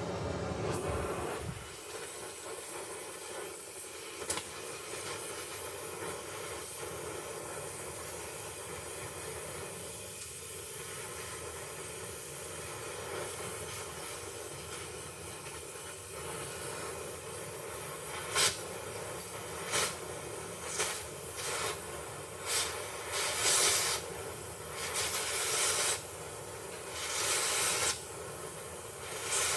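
Gas torch flame hissing steadily, then a run of louder short rushing blasts over the last ten seconds or so, as when a cutting torch is worked on a rivet.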